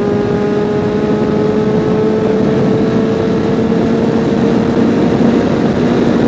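2006 Suzuki Katana 750's inline-four engine pulling under load in sixth gear at highway speed, its pitch rising slowly and steadily as the bike accelerates, over heavy wind rush.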